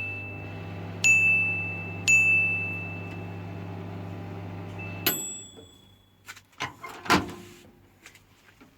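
Microwave oven keypad beeping three times, then the oven running with a steady mains hum for about five seconds until it cuts off suddenly with a click and a short beep. A few sharp clicks and one louder clunk follow.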